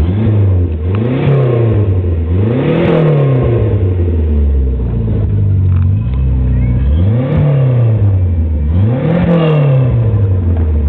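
Renault 5 GT Turbo's turbocharged 1.4-litre four-cylinder engine revved up and dropped back to idle four times, in two pairs of quick blips with steady idling between them.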